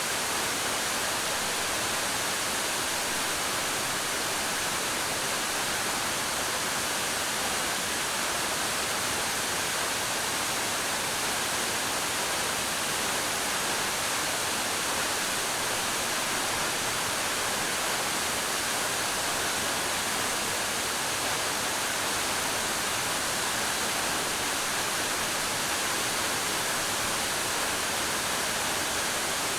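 Waterfall pouring steadily, an even unbroken rush of falling water.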